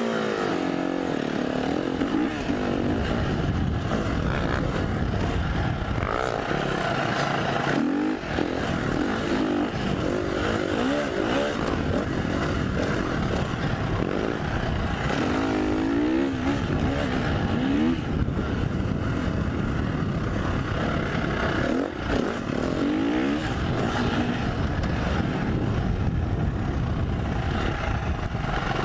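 2015 KTM 350 SX-F's single-cylinder four-stroke engine being ridden on the trail, its revs rising and falling repeatedly as the throttle is worked, with brief dips about eight seconds in and again near the end.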